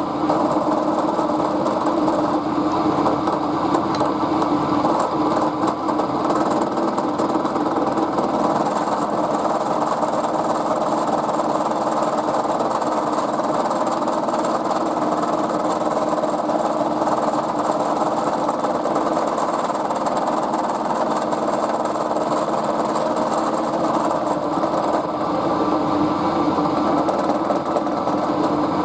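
Milling machine running steadily, its cutter taking a cut along a cold rolled steel bar.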